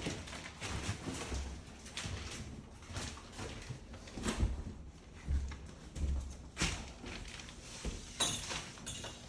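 Trash cans full of bathroom demolition debris being handled and moved, giving irregular knocks and thumps with short low rumbles.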